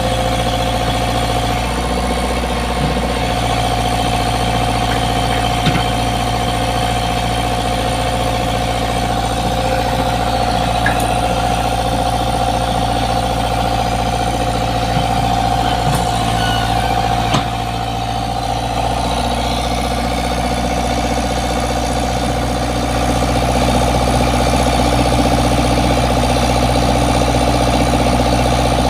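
Komatsu PC75 excavator's diesel engine running steadily at idle with a steady whine, a few faint metallic clicks, and the engine getting slightly louder about three quarters of the way through.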